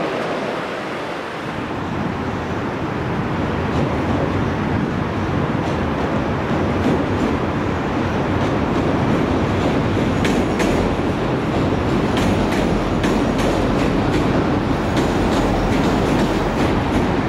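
Electric passenger train rolling across a railway bridge. The rumble builds over the first couple of seconds as it comes close, then holds steady. From about halfway on, the wheels clack sharply over the rail joints.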